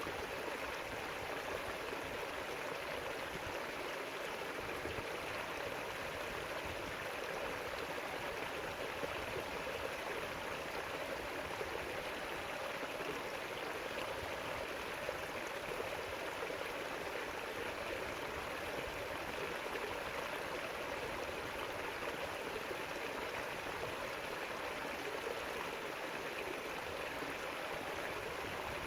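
River water flowing steadily over rocks, an even rushing and gurgling.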